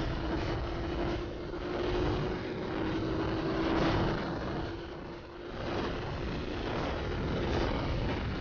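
Sport motorcycle engine running at a steady speed with a constant drone, under loud wind rush on the microphone that swells and fades in gusts.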